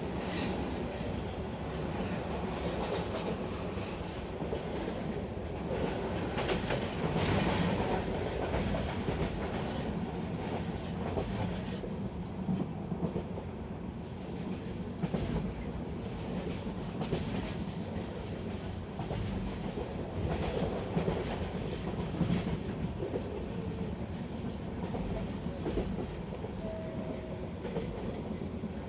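Passenger train running along the track, heard from inside the coach: a steady rolling rumble with the clatter of wheels over rail joints now and then.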